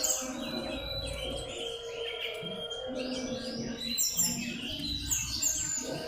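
Common iora (cipow) chirping: a busy run of short, overlapping chirps that slide downward, with a steady low hum or music underneath.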